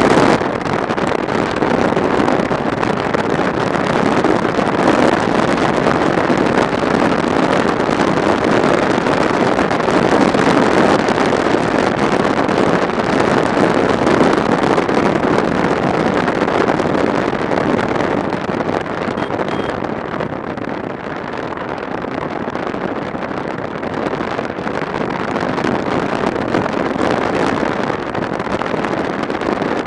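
Wind rushing over the camera microphone of a motorcycle riding at speed, a steady roar that eases a little about two-thirds of the way through.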